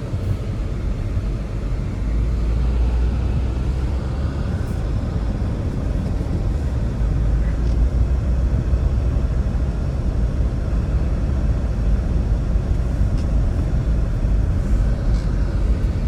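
Strong blizzard wind blowing steadily, with a deep rumble of gusts buffeting the microphone.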